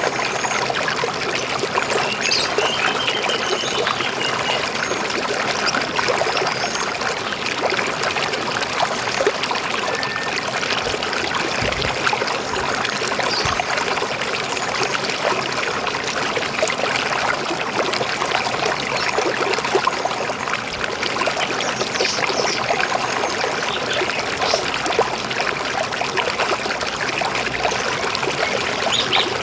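River water flowing and babbling steadily over stones, with a few faint bird chirps now and then.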